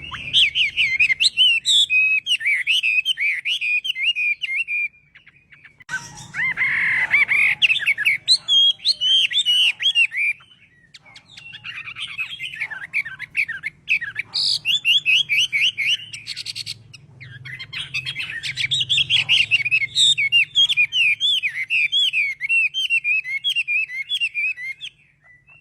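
Chinese hwamei (họa mi) singing: long, rapid runs of varied whistled notes, in four phrases with short pauses between them.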